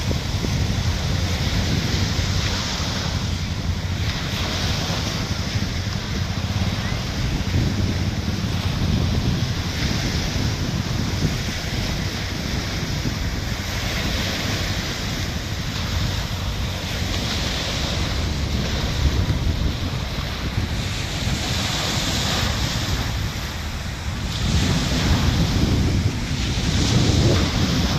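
Sea waves washing onto the shore, the hiss of the surf swelling with each wash every few seconds, while strong wind buffets the microphone with a steady low rumble.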